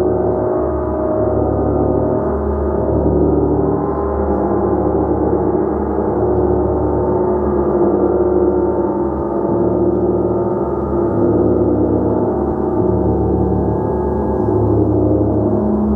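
Gong played continuously: a dense, shimmering wash of many overlapping tones that swells and ebbs gently, with no single strike standing out.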